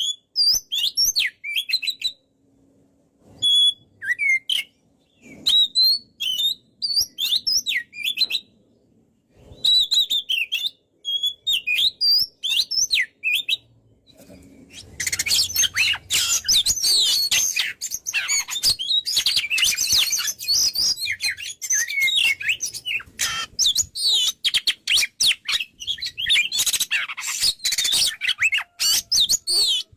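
Oriental magpie-robin singing at full voice. The first half is short whistled phrases broken by brief pauses. From about halfway it turns into a dense, rapid, nonstop stream of high chirps and whistles.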